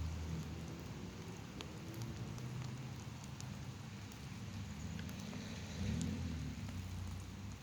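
Light rain outdoors: an even hiss with a few sharp drop ticks scattered through it, over a low steady rumble.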